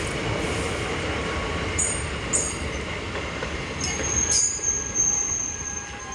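Passenger train coaches rolling slowly into a station as the train brakes, the wheels rumbling over the rails. Two short high squeaks come about two seconds in, then a steady high-pitched wheel squeal sets in from about four seconds on as the rumble eases.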